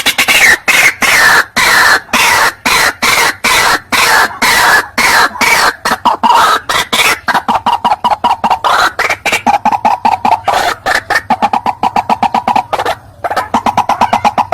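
White-breasted waterhen (ruak-ruak) calling: a fast run of short, loud, harsh clucking notes, about four or five a second, with a brief break near the end.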